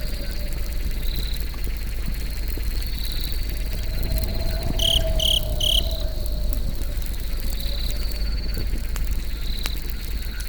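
Crickets chirping steadily over a low crackling campfire, with three short high-pitched calls about five seconds in.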